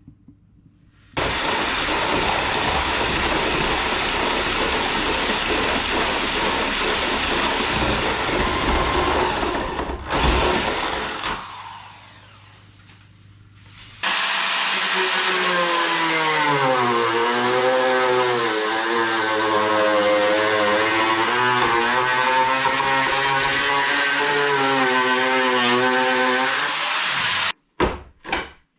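Power tool cutting, loud. A first steady run of about ten seconds fades out, and after a short pause a second run starts whose motor pitch sags and recovers as it bites, stopping abruptly near the end.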